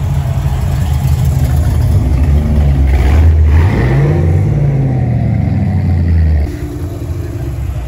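Cars driving slowly past at close range, engines running loud with a deep rumble, a classic Corvette's V8 among them; one engine revs up midway. The level drops suddenly about a second and a half before the end.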